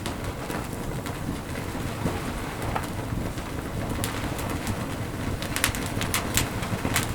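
Wood campfire burning with a steady low rumble and scattered sharp crackles and pops, which come in a quick cluster near the end.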